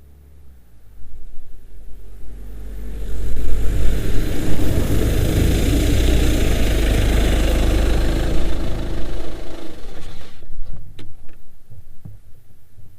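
A road vehicle passing close by: its engine rumble and tyre hiss swell up over a few seconds, hold, then die away near the end.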